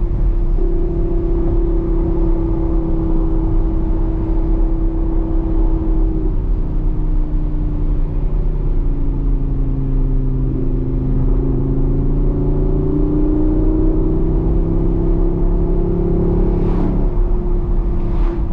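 The 5.2-litre V10 of a 2022 Audi R8 Performance with a Quicksilver exhaust, heard from inside the cabin while cruising at moderate speed. Its steady drone dips in pitch around the middle as the car slows, then climbs again as it picks up speed, over a constant low road rumble.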